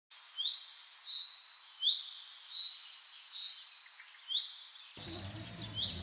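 Songbirds calling: many short, high chirps and slurred down-sweeping notes, with a quick trill about two and a half seconds in. About five seconds in, a low background noise joins in under the bird calls.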